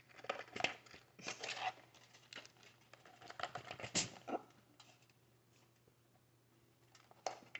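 Close-miked eating sounds of a seafood boil: irregular wet clicks, smacks and crackles in quick clusters for about four seconds, then quieter, with a few more near the end.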